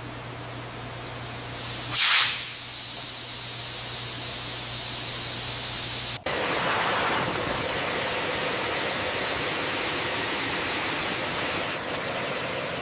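Steam hissing from a shipboard pipe joint: a brief loud burst of hiss about two seconds in, over a steady low hum. From about six seconds a continuous loud hiss of escaping steam.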